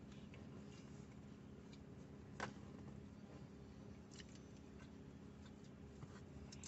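Near silence: soft crunching clicks of someone chewing a fried onion ring, one louder about two and a half seconds in, over a low steady hum.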